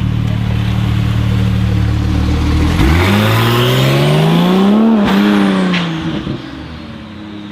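Car engine running at a steady note, then revving up for about two seconds and dropping back off.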